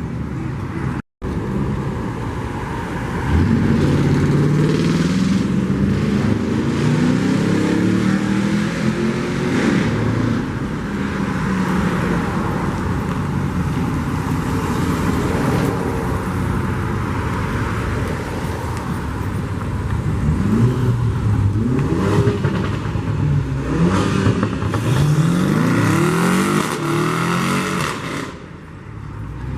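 Car engines revving and accelerating, with several rising pitch sweeps as the revs climb. There is a brief gap in the sound about a second in, and it gets louder about three seconds in.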